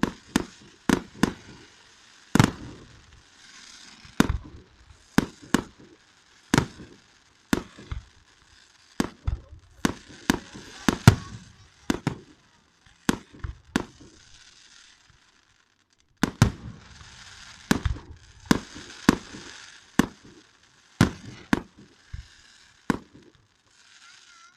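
Fireworks going off: a long run of sharp, irregularly spaced bangs, often one or two a second, with a crackling hiss between them and a brief lull a little past the middle.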